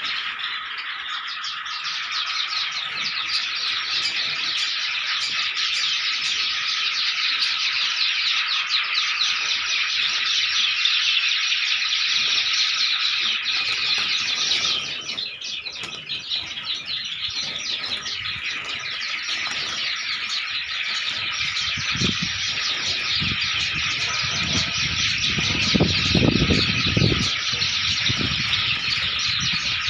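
A flock of Java sparrows chirping and squeaking densely and without pause. Low thuds and rumbles join in during the last several seconds.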